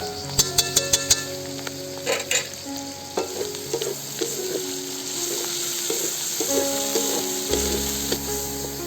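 Food frying in a pan and being stirred, with a steady sizzle. A quick run of five sharp clicks comes in the first second and a couple more about two seconds in, over background music.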